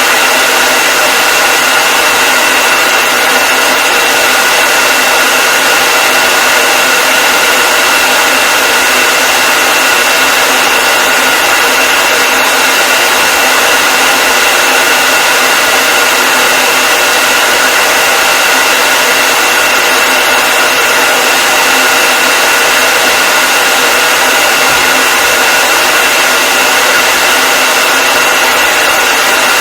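Hair dryer running steadily: an even, loud rush of air with a constant high whine from the motor and fan, unchanging throughout.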